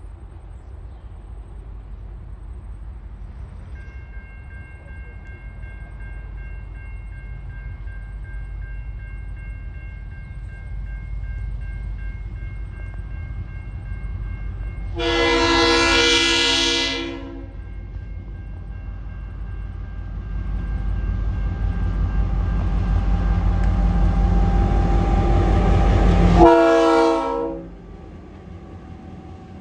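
TasRail DQ-class diesel locomotive approaching and passing at low speed: its engine rumble builds steadily to a peak and then drops away sharply as it goes by. It sounds its horn twice, a long blast about halfway and a shorter one near the end. A level crossing's warning bells ring steadily from a few seconds in.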